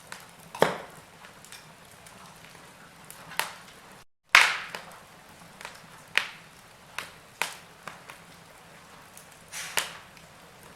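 Wood fire crackling: sharp, irregular pops and snaps of burning logs over a faint steady hiss. The loudest snap comes about four seconds in, right after a brief dropout.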